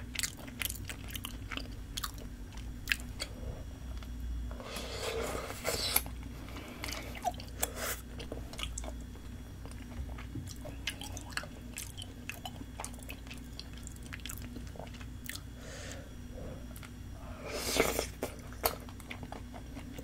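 Close-miked chewing of soft tteokbokki rice cakes in sauce, with many short wet clicks of mouth and food. Two longer, louder noisy sounds come about five seconds in and near the end.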